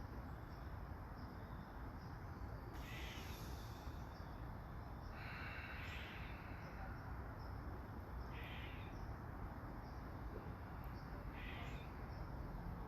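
A crow cawing four times a few seconds apart, the second call longer than the others, over a steady hiss of light rain.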